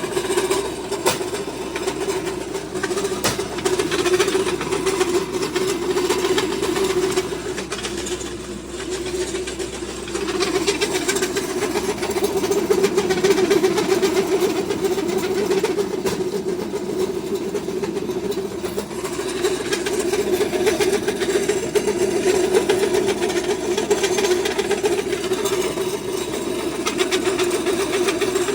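Pellet feed mill running under load, a steady mechanical drone with irregular crackling and ticking as a mix of corn, oats and barley is pressed through it into pellets.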